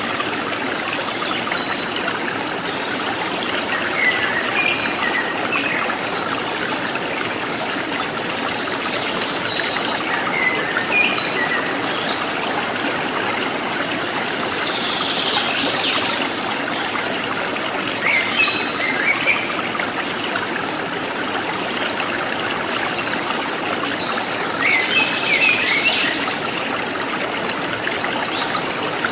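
Water trickling and babbling steadily over stones in a forest stream, with wild birds chirping now and then above it, in short bursts about 4 s, 15 s, 19 s and 25 s in.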